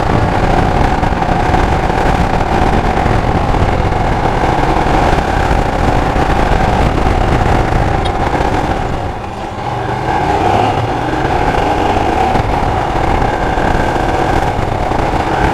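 Royal Enfield Himalayan motorcycle running steadily while being ridden, with continuous engine and road noise that dips briefly about nine seconds in.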